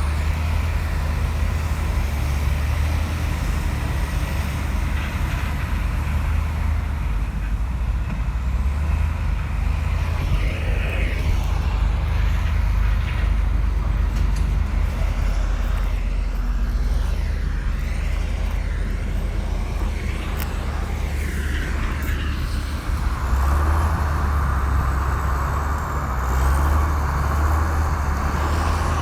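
Komatsu bulldozer's diesel engine running steadily with a deep rumble, getting louder and fuller about three-quarters of the way through as it works harder.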